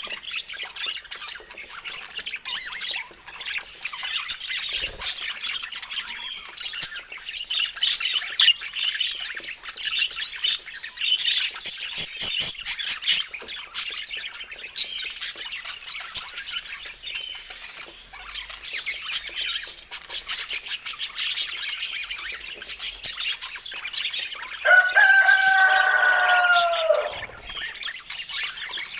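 Budgerigars chattering and warbling continuously, with many quick chirps and clicks. Near the end, a louder drawn-out call lasts about two seconds and drops in pitch as it ends.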